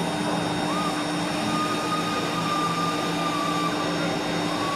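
Automatic lock-and-hinge drilling machine for aluminium profiles running with a steady whir and a thin high whine.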